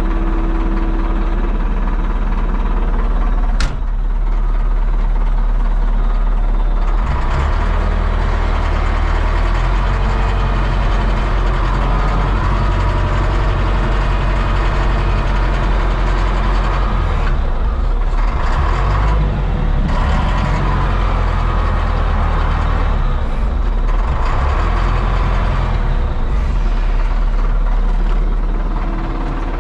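Motor vehicle engine running steadily, with a single knock about four seconds in, then working harder and unevenly from about seven seconds on as a car is pulled out of a ditch.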